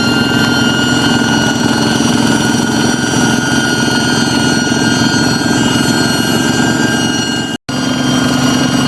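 Kubota hand tractor's single-cylinder diesel engine running steadily, with a high steady whine over the engine note, the 'jet fighter' sound. The sound cuts out for an instant about seven and a half seconds in.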